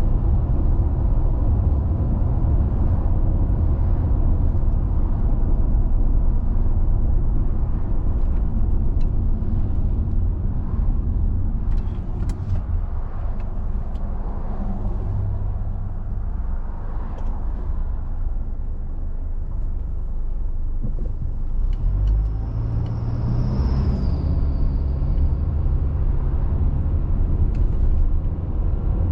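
Car driving on a rural road: steady low rumble of tyres and engine, with a few light ticks about twelve seconds in and a brief high whine that dips in pitch about two-thirds of the way through.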